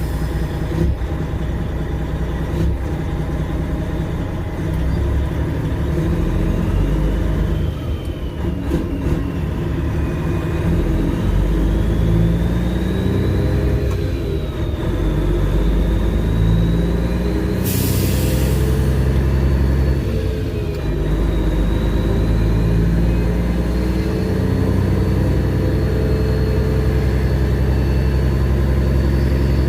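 Freightliner Classic XL semi truck's Detroit Series 60 12.7-litre diesel running at low speed, its pitch rising and falling with a turbo whistle over it. A short hiss of released air comes about eighteen seconds in.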